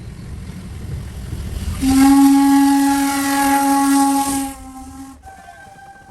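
Steam locomotive whistle blowing one long steady blast of nearly three seconds, with a rush of steam hiss, over the low rumble of the running train; the blast drops off and ends about five seconds in.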